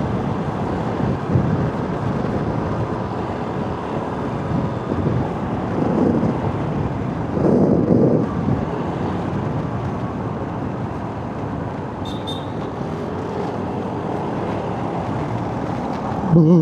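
A motorcycle riding along a busy road, with steady engine, tyre and traffic noise and louder swells about six and eight seconds in.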